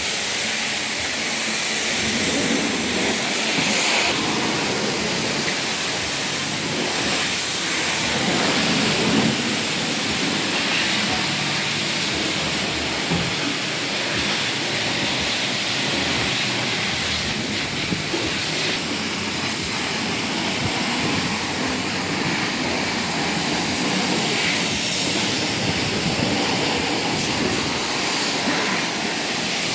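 Pressure washer spraying water in a steady hiss, with small rises and falls in level as the spray moves over the car.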